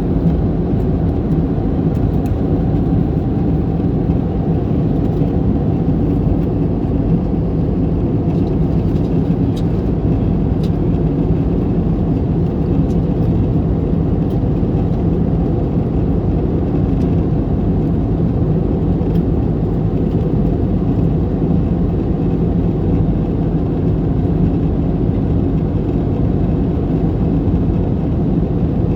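Steady cabin noise of an Airbus A321neo in flight: a low, even roar of engine and airflow with a steady hum underneath, unchanging throughout.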